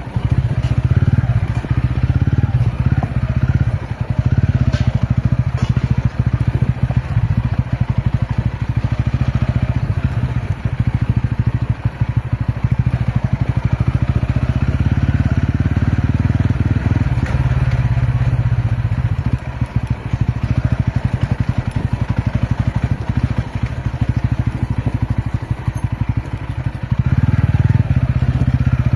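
A TVS Ronin motorcycle's single-cylinder engine running steadily while being ridden, a loud low engine note with a fast, even pulse.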